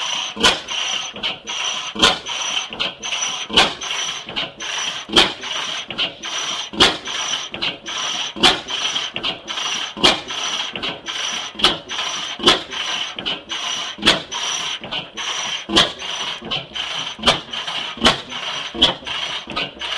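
25 hp South Penn 'half-breed' oil field engine with hot-tube ignition, running slowly on propane: a loud firing stroke about every 1.6 seconds, with lighter mechanical clicks between them over a steady hiss.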